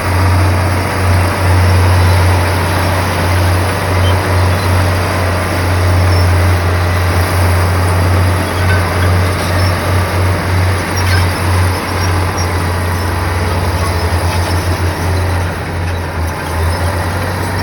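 Komatsu bulldozer's diesel engine running, with a strong low throb that pulses in strength over a broad mechanical rumble.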